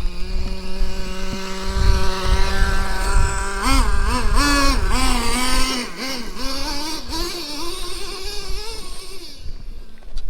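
Traxxas T-Maxx 3.3 nitro two-stroke engine running steadily, then revving up and down repeatedly from about four seconds in as the throttle is worked, before easing off and fading near the end.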